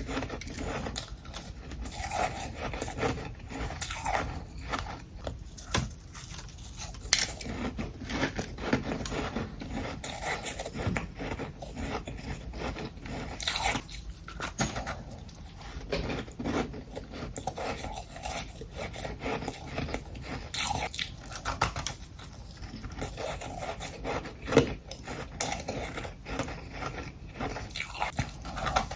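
Ice being bitten and chewed close to the microphone: a continuous run of crunches, with some scraping.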